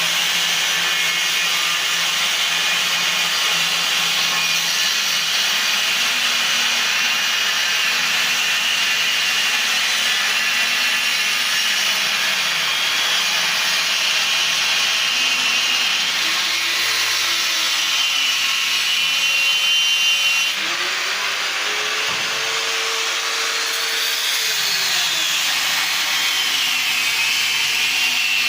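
Power tool cutting Z brackets, running continuously with a harsh cutting noise and a high whine that wavers up and down in pitch. The sound eases slightly about twenty seconds in.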